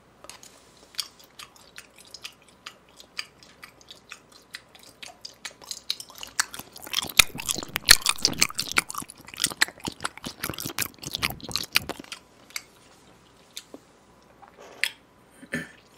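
Close-up chewing of raw beef sashimi (yuk-sashimi), a run of quick wet mouth clicks. The chewing grows dense and louder about six and a half seconds in and eases off again about five seconds later.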